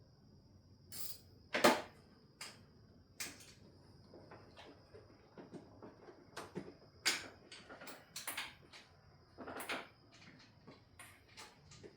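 Hand tools and metal parts clicking and clunking at irregular intervals as work goes on in a car's engine bay, pulling the wiring harness and its ground off the cylinder head. There are about a dozen sharp knocks, the loudest about two seconds in.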